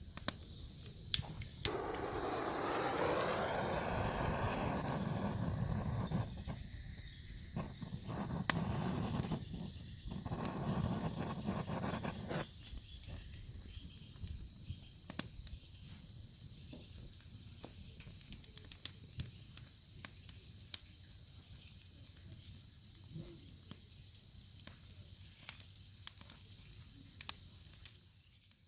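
Bacon sizzling in a pan over a wood fire: a steady high hiss with frequent sharp pops and crackles. A louder, lower rushing noise comes and goes from about two seconds in until about twelve seconds in.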